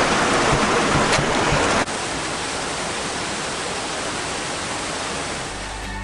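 Glacial meltwater rushing loudly down a rock crevasse as a steady wash of water noise. About two seconds in it drops abruptly to a quieter, steady rush.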